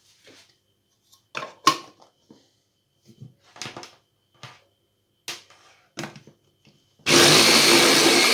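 A few scattered clicks and knocks, then about seven seconds in an electric blender switches on suddenly and runs loud and steady, puréeing strawberries with lemon juice and honey.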